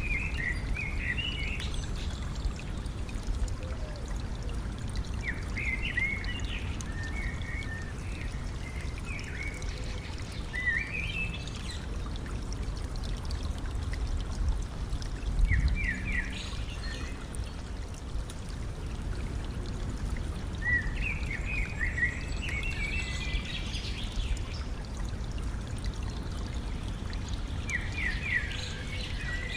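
Stream water running and trickling steadily, with a small bird singing short phrases of quick notes every few seconds. A brief low thump sounds about halfway through.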